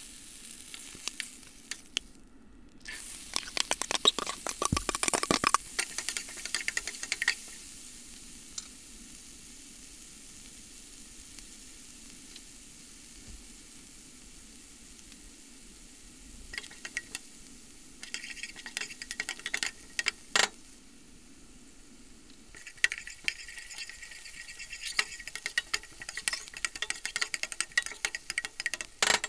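Oil sizzling in a stainless steel pan as short ribs sear and diced onion, carrot and celery sauté. There is a steady hiss, with bouts of denser crackling a few seconds in, about two-thirds of the way through and near the end, where a wooden spoon stirs the vegetables.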